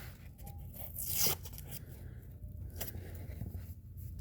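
Plastic gear oil bottle being opened: its stiff sealed cap is twisted and torn open, with a short tearing scrape about a second in and a few small plastic clicks.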